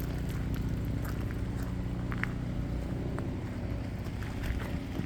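An engine running steadily with a low, even hum, with scattered small ticks and clicks over it.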